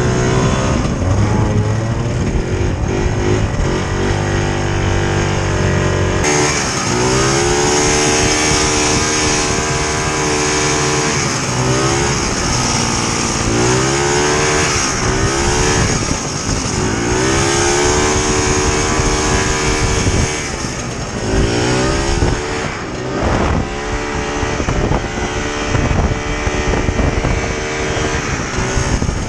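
Vintage two-stroke snowmobile engine running under way, its pitch rising and falling again and again as the throttle is opened and eased off.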